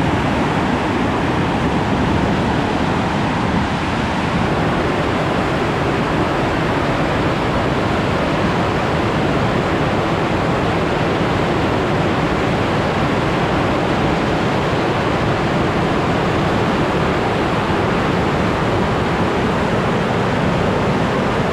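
Waterfall on a powerful river, loud and steady with heavy rushing water and no let-up.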